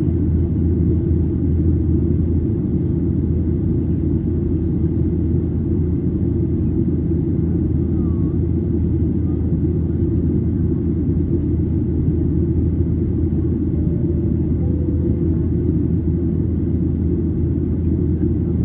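Steady cabin drone of a Boeing 737-800 in flight: an even, deep rumble of the CFM56-7B engines and airflow, heard inside the cabin.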